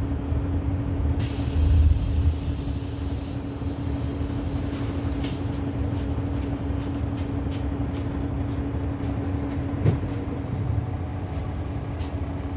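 Bus heard from inside the cabin: a steady engine and road rumble with a constant hum. A hiss runs for a few seconds near the start, and there is a single short knock about ten seconds in.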